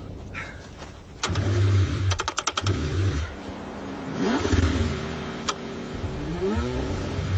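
Car engine cranking in freezing cold, starting about a second in and going in bursts with a quick run of clicks. Twice the pitch rises briefly, like the engine trying to catch.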